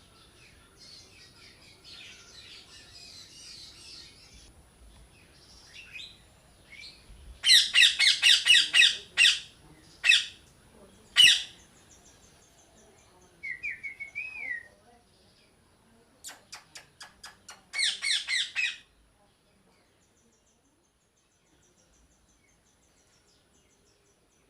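Parrots squawking in fast runs of loud, harsh calls, with soft chatter at first and a short wavering whistle midway; the calls stop about five seconds before the end.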